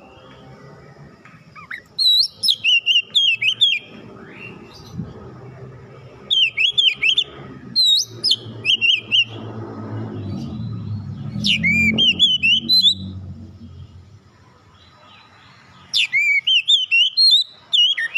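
Oriental magpie-robin singing loud, rapid phrases of sweeping whistled notes in five bursts with short pauses between them. A low rumble sits under the song through the middle.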